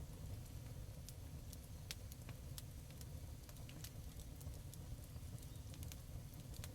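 Wood campfire crackling: irregular sharp pops and snaps scattered over a steady low rumble.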